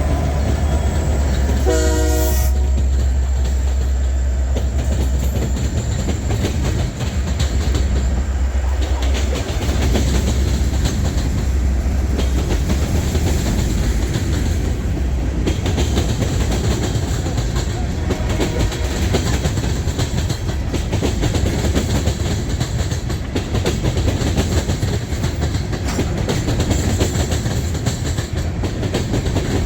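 Freight train rolling past, with a steady rumble and wheel clatter on the rails. A short horn blast sounds about two seconds in.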